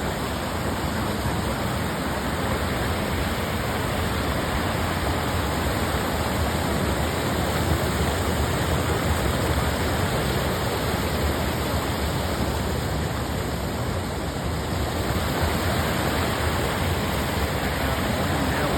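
Waterfall pouring into a lake, a loud steady rush of falling water.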